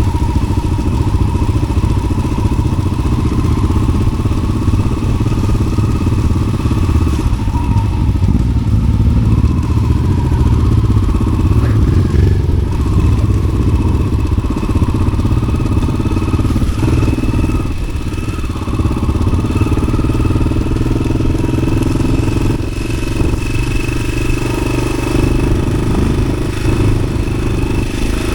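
Yamaha XT600's single-cylinder four-stroke engine running steadily through an aftermarket Arrow exhaust, with occasional knocks and clatter.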